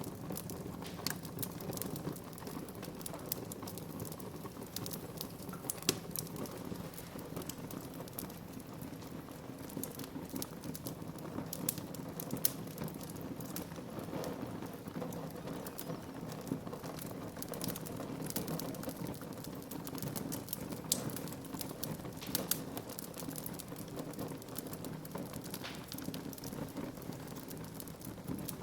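Wood fire crackling in a fireplace: a steady hiss of burning with many small sharp pops scattered throughout, a few of them louder.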